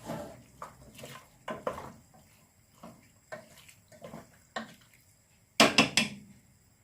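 Kitchen clatter: pots, lids and utensils knocked and set down in short, irregular clinks, with a louder clatter near the end.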